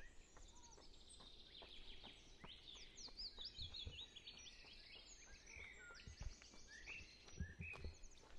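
Faint birdsong: small birds chirping, with quick series of high notes and short trills, over a quiet background hiss. A few soft low thumps come through now and then.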